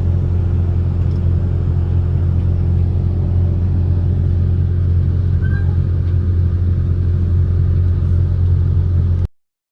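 Diesel engine of a Kobelco SK130 amphibious excavator running steadily with a low drone, cutting off abruptly near the end.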